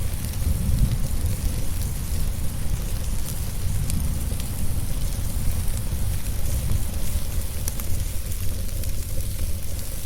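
Wood fire crackling with scattered sharp pops over a steady low rumble of rain and storm ambience.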